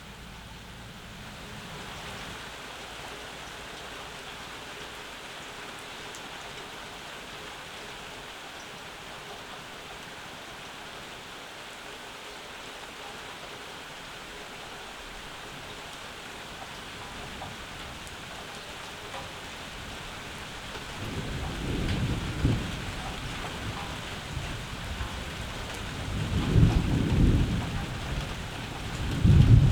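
Steady summer rain falling, with rolls of thunder starting about two-thirds of the way through: three low rumbles, the last the loudest.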